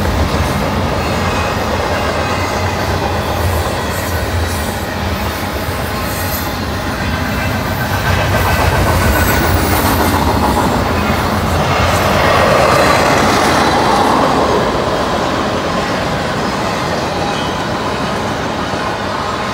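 Double-stack container freight train rolling past at close range: a continuous noise of steel wheels running on the rails, growing louder from about eight seconds in and peaking around twelve to fourteen seconds.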